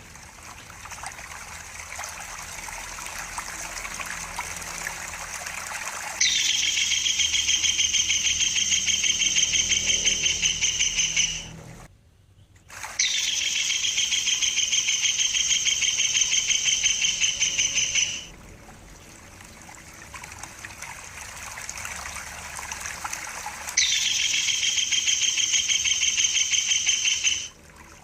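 Tengkek buto kingfisher giving three long, fast rattling trills, each lasting several seconds and starting abruptly. Running water trickles steadily underneath.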